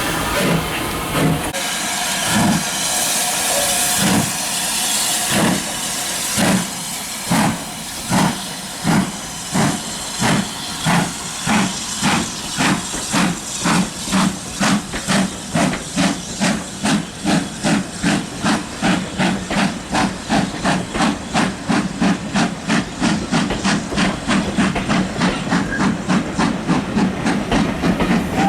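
Steam locomotive pulling away from a stand: a loud hiss of steam at first, then exhaust beats that speed up steadily, from about one every second and a half to two or three a second.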